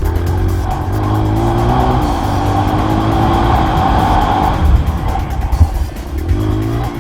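Motocross dirt bike engine running hard, its pitch rising and dropping as the rider works the throttle, with a few sharp knocks past the middle.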